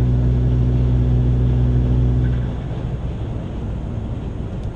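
Chevy Sonic's 1.4 L turbocharged four-cylinder engine, with an aftermarket exhaust, running at a steady drone. About halfway through, the steady note drops away and leaves a quieter, rougher rumble.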